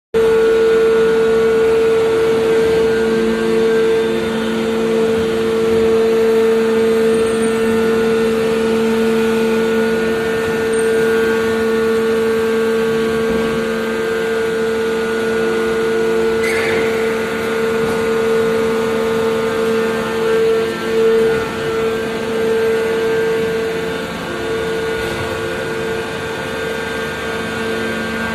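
Steady, loud hum of industrial forging machinery, several tones held level, with a single knock about sixteen seconds in.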